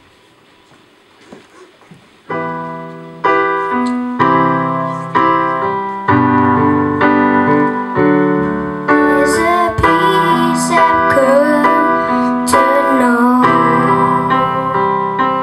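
Electric keyboard starts playing sustained chords about two seconds in, struck roughly once a second. About halfway through, a voice begins singing over it.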